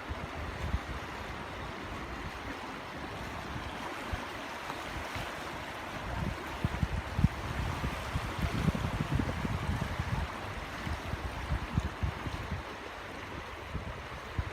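Flowing water of a stream or small waterfall rushing steadily, with wind buffeting the microphone in gusts through the middle.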